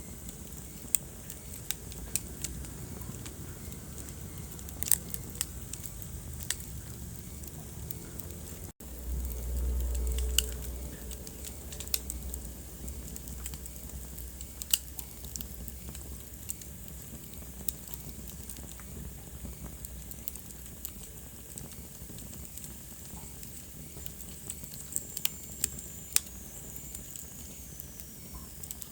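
Wood fire crackling in a fireplace: irregular sharp pops over a steady low rumble of burning. The sound cuts out for an instant about nine seconds in and comes back with a louder low rumble for a few seconds. A faint high whistle slides down in pitch near the end.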